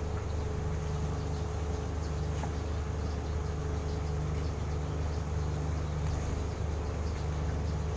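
A steady low hum, with a faint chirp of small cage birds here and there.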